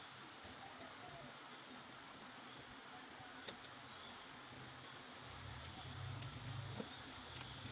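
Faint, steady high-pitched chirring of insects such as crickets. A low rumble comes in about five seconds in.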